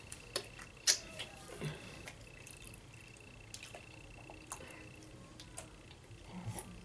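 Close-up chewing of Doritos nachos loaded with meat and cheese: scattered crunches and wet mouth clicks, the sharpest about a second in. A few soft swallows from a cup near the end.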